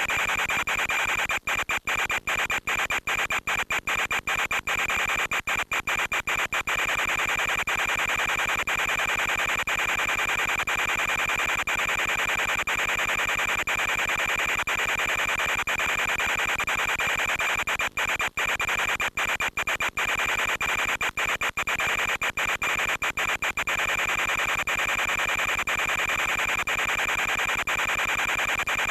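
Steady static hiss with a constant high-pitched whine, from the audio channel of an analog FPV video link. Brief dropouts cut through it in clusters near the start and again past the middle, typical of the signal breaking up.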